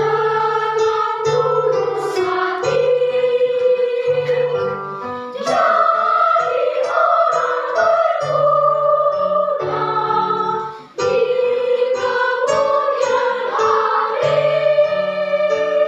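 Children's choir singing held notes of a melody over low instrumental accompaniment, with a brief break about eleven seconds in.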